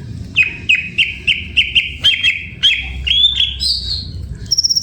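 Caged cucak ijo (greater green leafbird) singing a run of short, sharp, repeated chirps, about three a second. Near the end the song rises into higher notes and a quick high-pitched trill.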